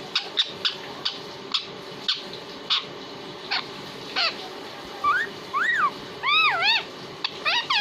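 Pet parrot making short scattered clicks and chirps, then from about five seconds in a string of arching calls that rise and fall in pitch, several in quick succession near the end.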